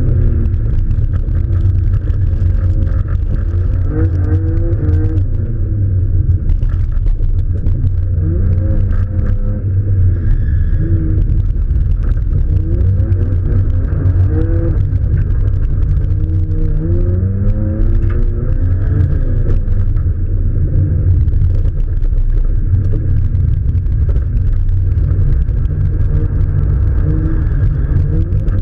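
Car engine revving up and falling back over and over under a heavy, steady low rumble, heard muffled as if through a camera's housing.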